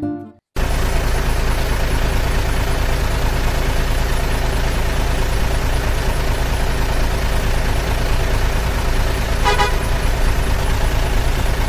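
Engine of a heavy construction vehicle running loud and steady, with one short horn toot near the end.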